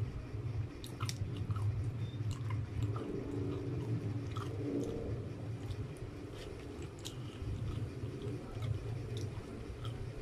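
A person chewing food with wet mouth clicks and smacks, irregular and scattered, over a steady low hum.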